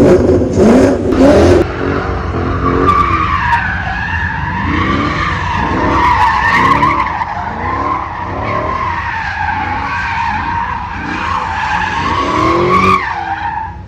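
A Ford Mustang doing donuts: its tires squeal continuously with a wavering pitch while the engine note rises and falls underneath. The squeal cuts off suddenly about 13 seconds in.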